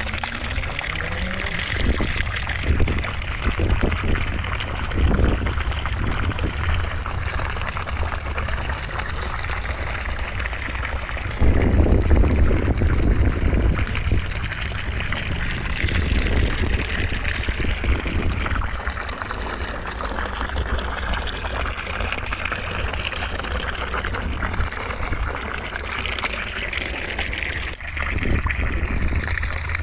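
Steady rushing white noise, which grows slightly louder and fuller about eleven seconds in.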